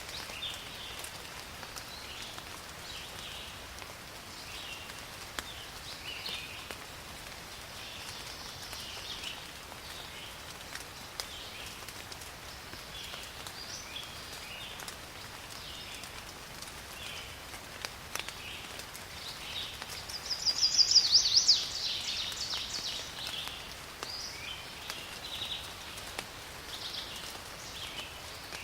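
Forest rain ambience: a steady hiss of rain, with short high chirping calls from birds or insects repeating about once a second. About two-thirds of the way in, a louder burst of rapid high notes stands out.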